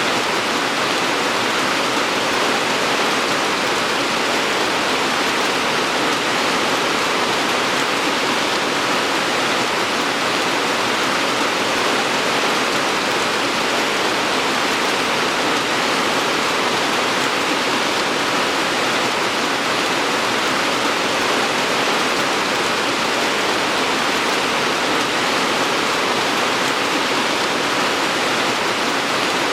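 Steady, even rainfall hiss with no separate drops standing out.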